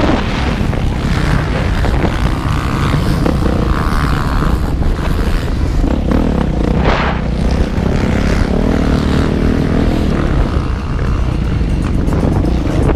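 Motocross motorcycle engine running and revving as the bike rides the track, with wind buffeting the on-board microphone.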